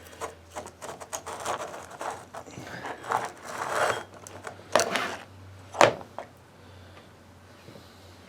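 Hands handling winch motor parts on a workbench: irregular scraping and rustling for about four seconds, then two sharp clicks a second apart, the second the loudest, before it quietens to a faint hum.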